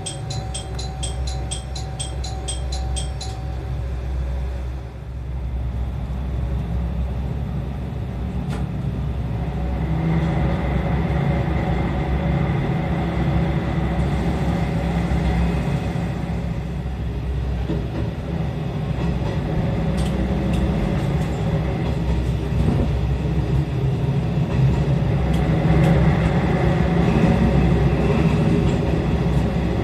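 Diesel railcar running as it pulls away and gathers speed, its low engine drone growing louder about ten seconds in. A repeating high chime sounds for the first three seconds.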